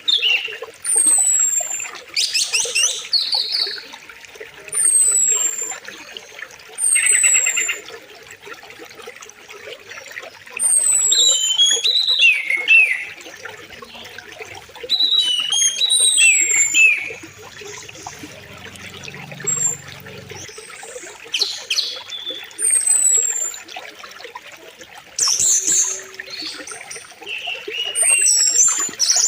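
Steady flowing river water with birds calling over it: a high whistled note that slides downward, repeated every few seconds, and warbled, chirping phrases in between.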